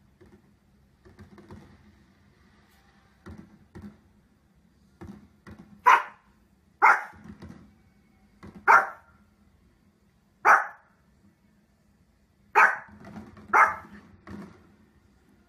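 A small spitz-type dog barks sharply: a few soft barks, then six loud single barks from about six seconds in, spaced one to two seconds apart.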